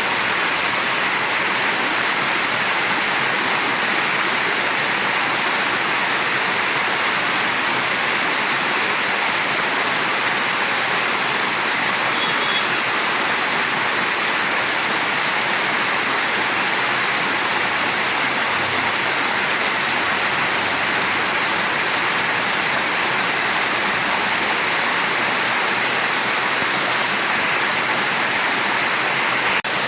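Mountain stream flowing, a steady, even rush of water with no let-up.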